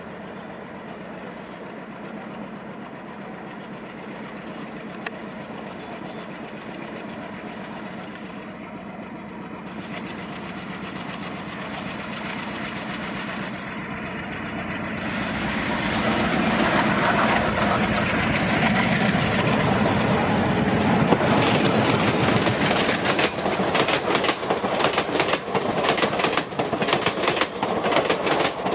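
Twin ALCO WDM3A diesel locomotives approaching at speed, their engine sound growing steadily louder and swelling sharply about halfway through as they come close. In the last several seconds the coaches' wheels clatter rapidly over the rail joints as the train passes.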